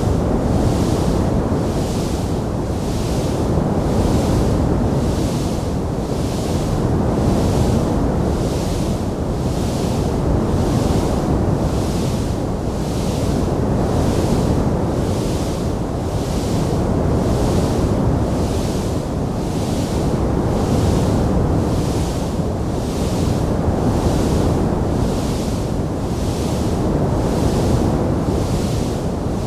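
Wood fire in a fireplace giving a steady, low rushing noise that swells and ebbs every few seconds, over a faint high hiss that pulses about once a second. No distinct crackles or pops stand out.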